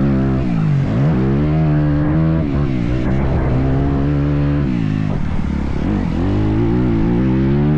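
Motocross bike engine revving hard, its pitch climbing and dropping back several times as the throttle opens and closes.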